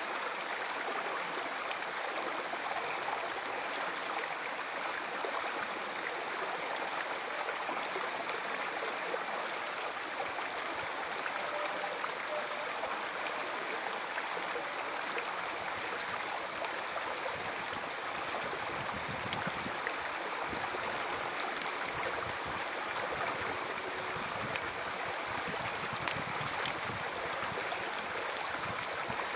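River water flowing in a steady, even rush, with low rumbles now and then in the second half.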